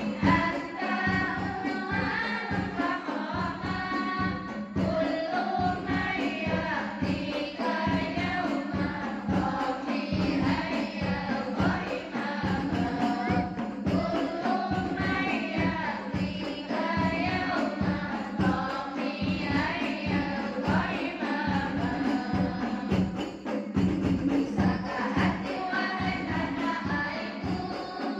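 Women's choir singing over hand percussion that keeps a steady beat.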